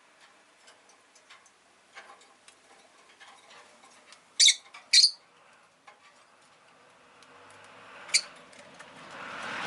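Rosy-faced lovebird giving two loud, sharp chirps about four and a half seconds in and another near the end, over light scattered ticking and clicking. A broad rushing noise swells toward the end.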